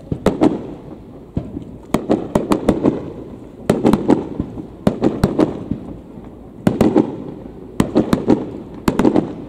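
Aerial firework shells bursting in rapid volleys: clusters of sharp bangs about every second, each followed by an echoing rumble.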